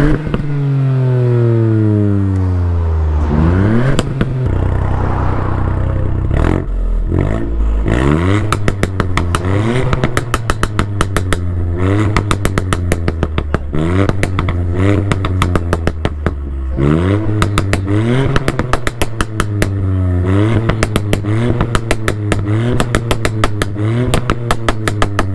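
Mk8 Ford Fiesta ST's 1.5-litre turbocharged three-cylinder engine being revved repeatedly through its exhaust, the revs climbing and dropping back each time. Through the second half, rapid pops and crackles fire from the exhaust as the revs fall.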